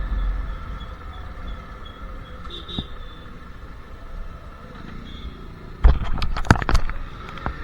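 Royal Enfield Classic 350's single-cylinder engine running. Its low rumble falls away within the first second and it runs quieter, then a quick cluster of sharp knocks and clicks comes about six seconds in.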